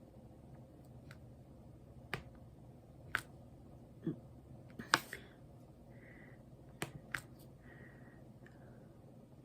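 Light, sharp clicks and taps at irregular intervals, about six of them, from diamond painting: a drill pen picking up and pressing small resin drills onto the canvas and tray.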